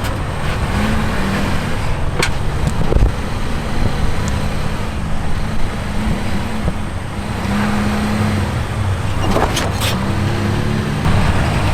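Off-road vehicle engine running at low speed, its pitch rising and falling with the throttle as it crawls an obstacle, with a few sharp knocks.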